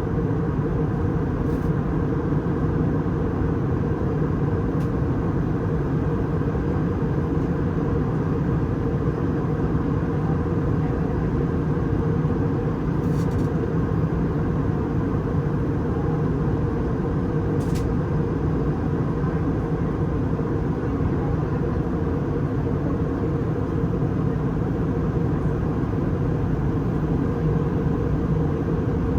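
Steady cabin noise inside an Airbus A320 in flight: a constant rumble of the engines and the air rushing past, with a few faint clicks.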